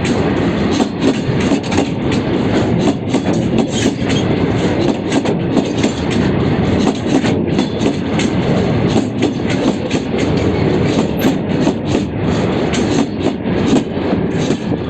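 Freight train of covered bogie wagons rolling past, its wheels clattering over the rail joints in a quick, steady rhythm over a continuous rumble.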